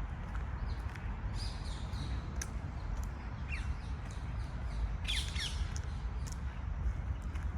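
Birds calling a few times, with short chirps and falling calls, loudest about five seconds in, over a steady low rumble of city background.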